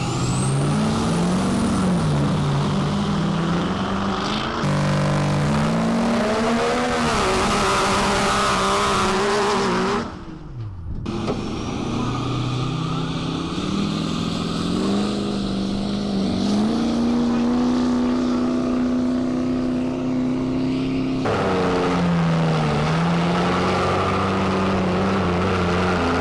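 Diesel pickup truck engines revving, the pitch rising and falling again and again, with several abrupt cuts and a brief drop-out about ten seconds in.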